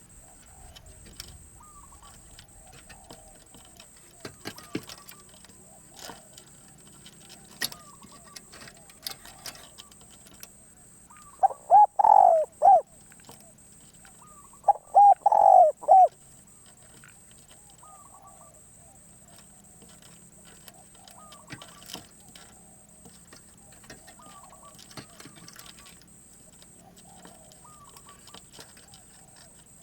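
Spotted dove cooing: two loud phrases of several notes each, a few seconds apart, near the middle. Faint calls of other birds repeat throughout.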